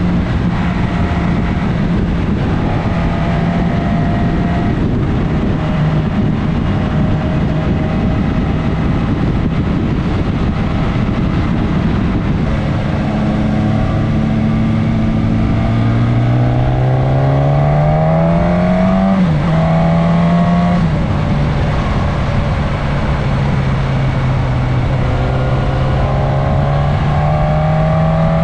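Suzuki GSX-S1000S Katana's inline-four engine under way, heard onboard with a steady rush of wind. About halfway through, the engine pitch climbs steadily as the bike accelerates, then drops sharply at a gear change. The pitch rises again near the end.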